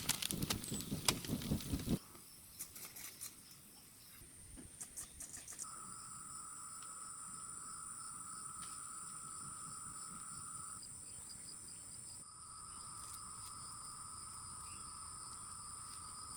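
A couple of seconds of quick clattering and rustling, then steady high-pitched insect buzzing from about five seconds in, with a short break near the middle.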